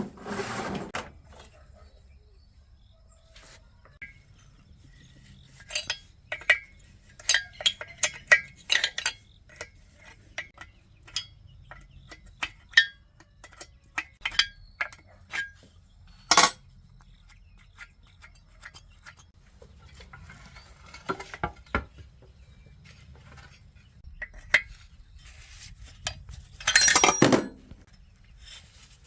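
Metal parts and hand tools clinking and tapping at irregular intervals as they are handled, with one sharper strike near the middle and a louder, longer burst of noise near the end.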